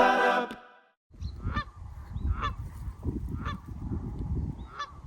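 Geese honking: four separate calls about a second apart, over a low rumble. A moment of fading music comes before them.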